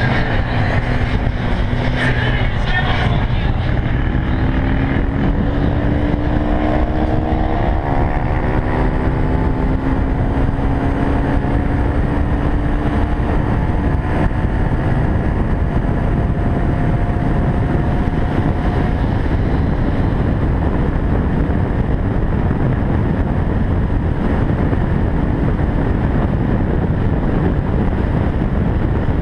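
Single-cylinder Yamaha FZ16 motorcycle engine pulling at speed, its pitch climbing slowly and then holding steady, under heavy wind rushing over the microphone. In the second half the wind noise covers the engine.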